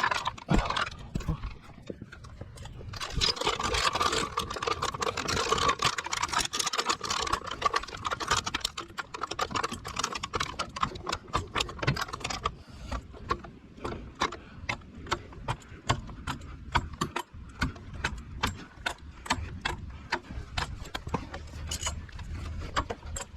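Car jack being pumped under the car: a long run of regular clicks and knocks, a few a second, from about a third of the way in onward, with scraping and handling noise before it.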